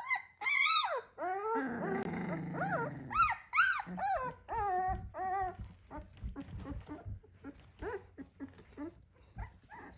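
Litter of 18-day-old puppies squealing and yelping at each other in play, in short high cries that rise and fall in pitch, with a lower growling cry about two seconds in. The cries turn softer and sparser in the second half.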